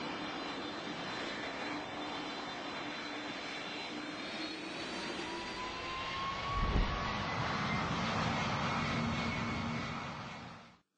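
Jet aircraft engines running with a steady roar, a whine rising in pitch about six seconds in, and a brief low rumble just after it. The sound cuts off abruptly near the end.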